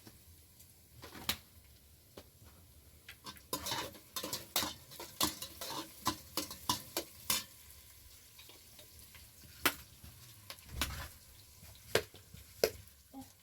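A cooking utensil stirring and scraping in a pan, with food frying. There is a quick run of sharp clicks and scrapes from about a third of the way in, then scattered single knocks.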